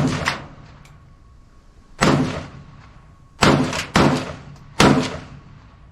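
Five single semi-automatic shots from an AK-pattern rifle in 7.62x39, fired at an irregular pace, each sharp crack trailing off in a short echo.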